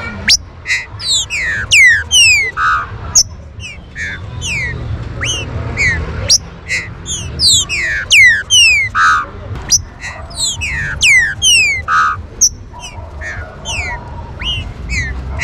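Green-winged saltators (trinca-ferro) calling busily: a rapid, unbroken stream of sharp down-slurred whistled notes, several often overlapping, with brief pauses between clusters.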